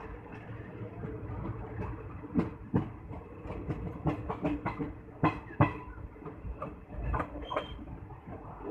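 Train running on rails: a steady low rumble with many irregular sharp clacks and knocks, thickest through the middle.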